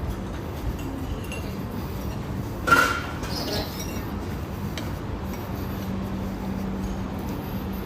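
Steady background noise with a low hum, and a single short clink about three seconds in that rings briefly.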